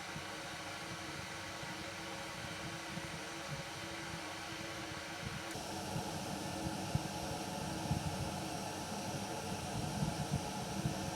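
Wood fire burning: a steady rushing noise with a flickering low rumble and a few small crackles, the sound changing abruptly about five and a half seconds in.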